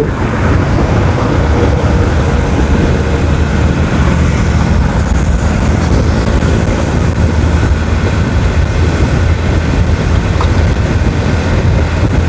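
Motorcycle under way at steady cruising speed: a loud, even low rumble of wind and road noise on the microphone over the engine's steady drone.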